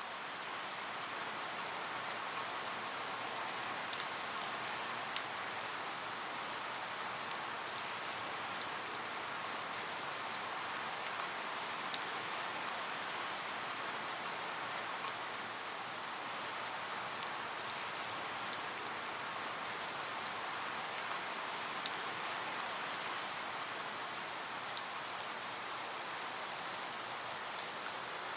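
Steady rain: an even hiss of falling rain with irregular sharp drops tapping on a surface every second or so.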